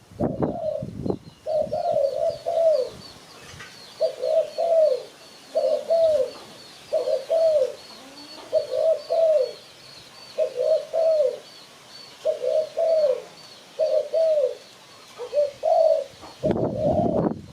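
Spotted dove cooing: about ten short, falling two- or three-note phrases, one every second and a half or so. A faint, fast, high chirping runs behind the coos through most of the stretch.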